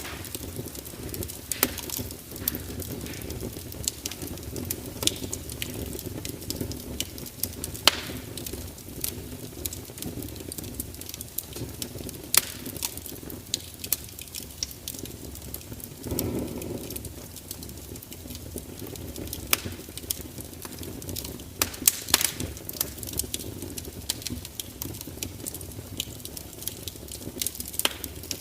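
Fire crackling, with sharp pops and snaps at irregular intervals over a steady low rumble. There is a brief louder rush about sixteen seconds in.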